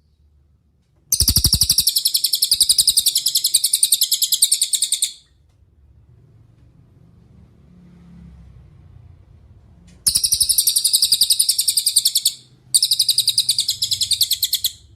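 A cililin songbird singing three bouts of fast, evenly repeated high chirps, the first about four seconds long, then two shorter bouts close together near the end.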